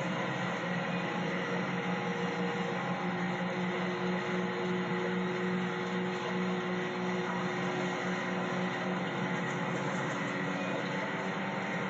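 Garbage truck engine running steadily, a continuous mechanical drone with a faint hum and no sudden knocks or changes.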